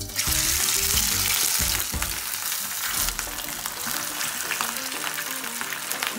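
Spice-marinated duck breast pieces laid into hot oil in a frying pan, sizzling loudly as they hit the oil. The sizzle starts suddenly, is strongest in the first couple of seconds as pieces go in, with a few soft knocks from placing them, then settles into a steady fry.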